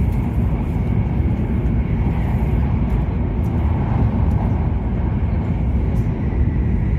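Cabin noise of an E7 series Shinkansen running along the line: a steady low rumble with a faint hiss, unchanging throughout.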